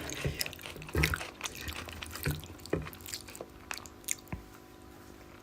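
A person eating fish curry and rice close to the microphone: wet chewing with scattered mouth clicks and smacks, the loudest about a second in.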